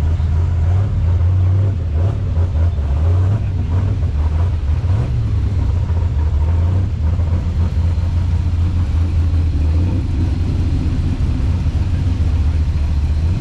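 Car engine running close by with a steady low rumble that swells a little now and then, as a car idles or creeps slowly past.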